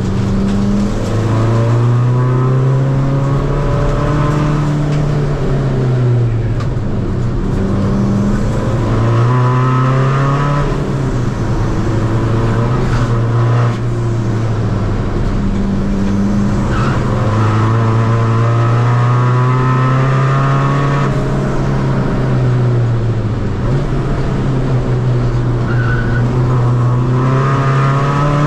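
Tuned 2.0 common-rail diesel engine of a Seat Ibiza FR being driven hard on track, its note rising under acceleration and dropping back at each gear change or lift, over and over.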